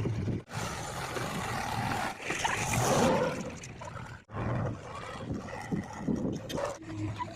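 Diesel engines of a JCB 3DX backhoe loader and tractors running under load, with mechanical clatter and a louder surge about two to three seconds in. The sound breaks off abruptly twice.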